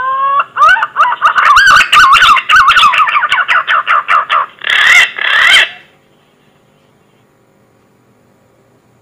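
Green pigeon (punai) song played as a hunter's lure call. A rising whistle is followed by a fast run of wavering whistled notes and two louder notes about five seconds in, and then it stops.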